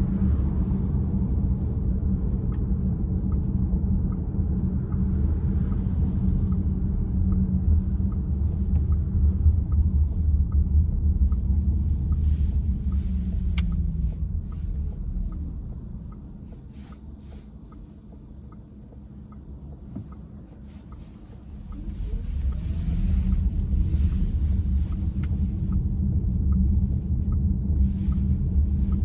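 Car cabin with steady road and engine rumble, and a few sharp clicks from the steering column a little under halfway through. A faint, even ticking runs under it, and the rumble fades for several seconds past the middle, then comes back.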